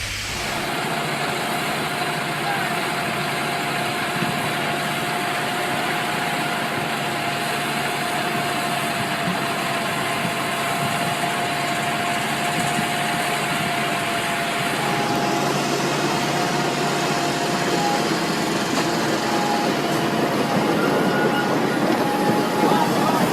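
Steady vehicle running noise with a thin, steady whine, growing slowly louder toward the end.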